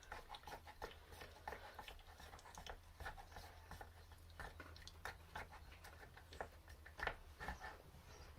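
Faint, irregular small clicks and taps, a few a second, from small objects being handled, over a steady low hum.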